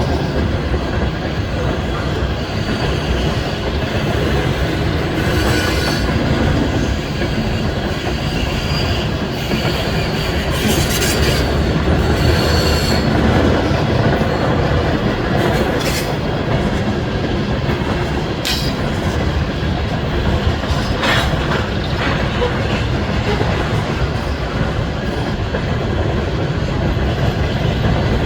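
Loaded coal gondolas of a freight train rolling past: a steady rumble of steel wheels on the rails with clicking over the joints. Faint high wheel squeal comes and goes through the middle, with a few sharp metallic screeches later on.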